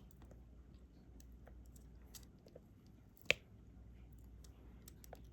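Faint clicks and taps of a diamond-painting stylus picking up resin drills one at a time and pressing them onto the canvas, with one sharper click about three seconds in.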